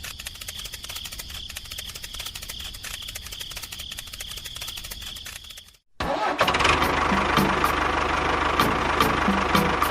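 Small electric motor of a model DIY tractor whining steadily with fine ticking, then, after an abrupt cut about six seconds in, louder mechanical running with clattering clicks.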